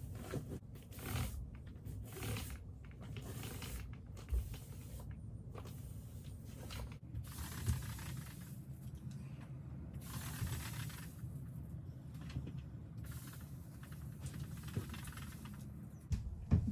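Paint roller working paint onto plywood wall panels: about a dozen uneven hissing strokes, each half a second to a second and a half long, with short pauses between.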